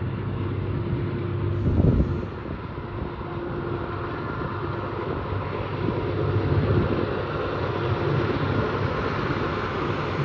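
Diesel-electric freight locomotives working under load on a steep climb: a steady engine drone with a brief thump about two seconds in.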